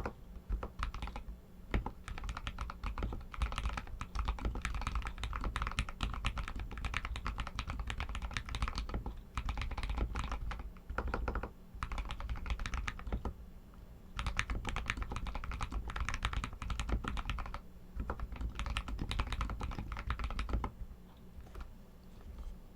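Royal Kludge RK61 mechanical keyboard with Outemu Red linear switches being typed on steadily: dense runs of key clacks, broken by a few short pauses.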